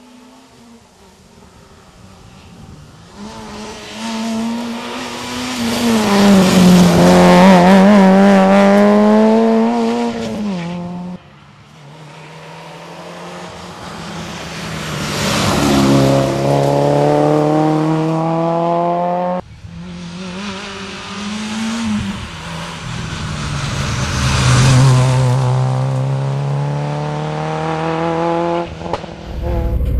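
Citroën Saxo Group N rally car's four-cylinder engine at high revs on the stage, heard in three separate shots that cut abruptly into one another. In each the engine grows louder as the car approaches, its note climbing and falling with throttle and gear changes.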